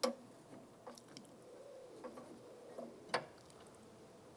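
Light clicks and taps of a door-handle linkage rod being worked into its plastic retaining clip inside a truck door: a sharp click at the start and another about three seconds in, with fainter ticks between.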